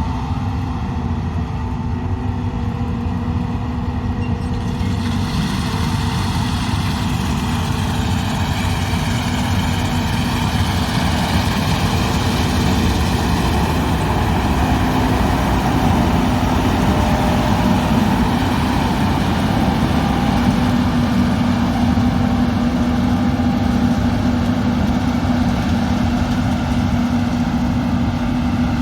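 Combine harvester working, its diesel engine and threshing machinery running steadily with a constant hum and a whine above it. The sound grows brighter about five seconds in and a little louder midway.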